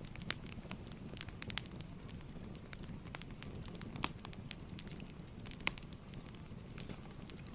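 Fireplace fire crackling: a steady low rumble of the flames with irregular sharp pops and snaps, two louder pops about four and five and a half seconds in.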